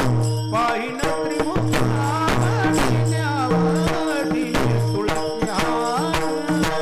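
Marathi devotional kirtan music: an ornamented melody sliding in pitch over a held harmonium drone, with drum strokes and small hand cymbals keeping a steady beat.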